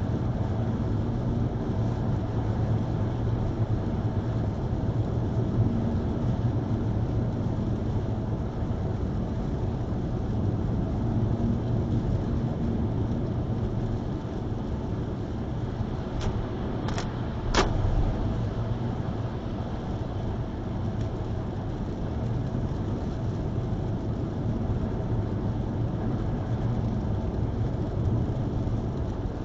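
Car driving in the rain, heard from a dashcam: steady road, tyre and engine noise. Three short clicks come in quick succession a little over halfway through.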